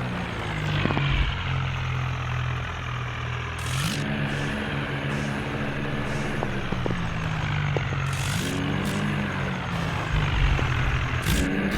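Diesel tractor engines working hard under load during a tow, the engine note rising and falling a few times.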